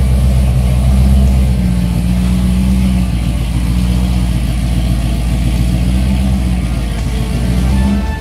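V8 car engine idling steadily with a deep, even rumble.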